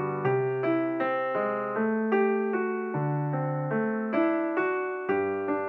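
Piano music with no singing: chords struck about twice a second, each ringing and fading, over a slowly changing bass note.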